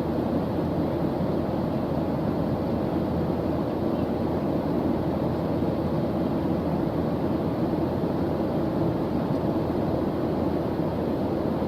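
Steady white noise: an even, unchanging rushing hiss, heavier in the low end than the high.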